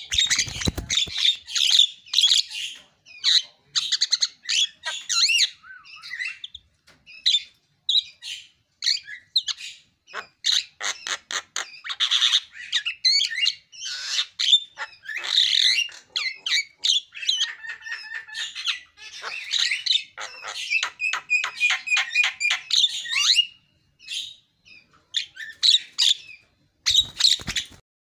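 Javan myna singing at full voice: a long, varied run of chattering notes, whistles, harsh squawks and fast rattling trills, broken by a few short pauses.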